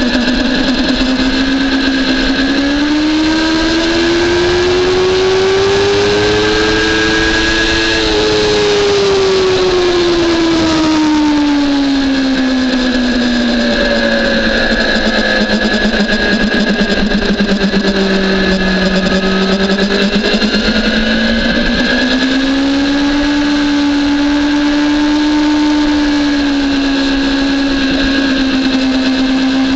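Onboard sound of a BMW S1000RR's inline-four engine under way. The engine note climbs steadily for about eight seconds, drops away over the next ten, then climbs again and holds.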